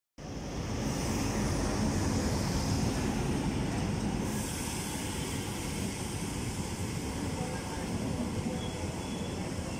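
Passenger train rolling past on the adjacent track, hauled by an ALCo WDM3A diesel-electric locomotive: a steady noise of the locomotive and then its coaches going by. There is faint wheel squeal near the end.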